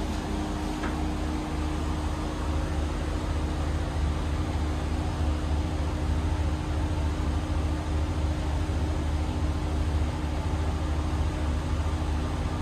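Steady low rumble and hum of a sleeper train carriage running, heard inside its toilet compartment, with a faint click about a second in.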